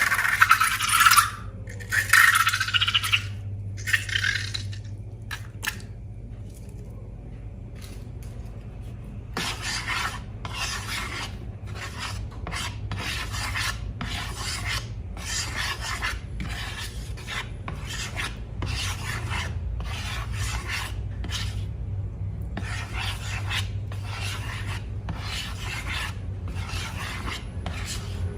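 Slime being worked in a container: a few loud scraping strokes, then a quieter stretch with a few clicks, then even rubbing, scraping strokes at about two a second from about a third of the way in.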